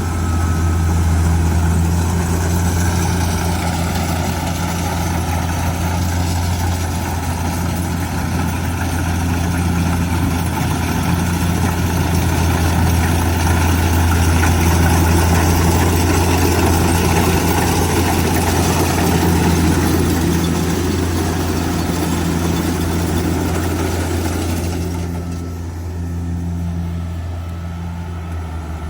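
Kubota DC70G Plus combine harvester's diesel engine running steadily under a deep hum, with a wide mechanical noise from the machine. The sound eases off, losing its higher noise, a few seconds before the end.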